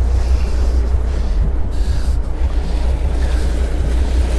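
Boat's starboard engine idling steadily at about 600 rpm, a low rumble heard at its exhaust from outside, just started for the first time after the winter lay-up.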